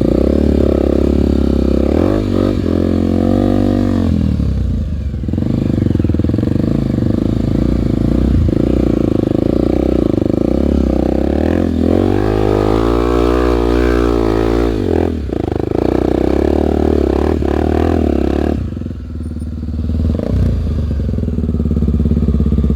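Single-cylinder four-stroke trail motorcycle engine running under load, the revs rising and falling twice.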